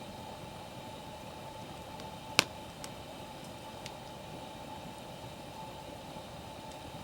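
Wood fire burning with a steady hiss, broken by a few crackles and one sharp, loud pop of burning firewood about two and a half seconds in.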